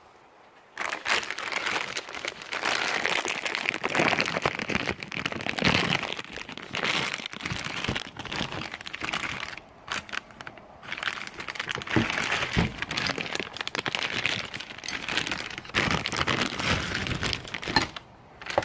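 Product packaging crinkling and rustling as it is torn open by hand, with small knocks and handling noise. It starts about a second in and runs on unevenly in irregular spells.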